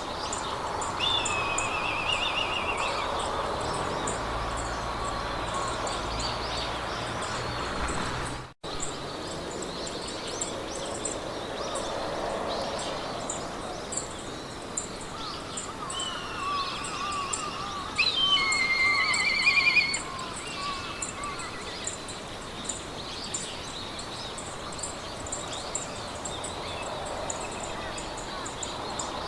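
Meadow ambience: several birds singing in short warbled and trilled phrases, the loudest about eighteen seconds in, over a steady soft wash of wind-like noise. A high insect ticking repeats evenly all the way through, and the sound cuts out for a split second about eight and a half seconds in.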